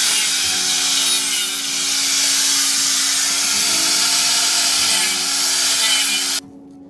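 A power tool working on material, a loud steady harsh noise that cuts off suddenly near the end, with background music underneath.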